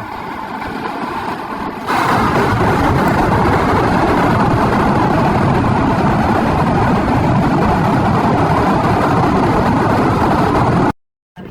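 Loud, steady rushing wind noise on the microphone, jumping louder about two seconds in as a gust hits, then cutting off abruptly near the end.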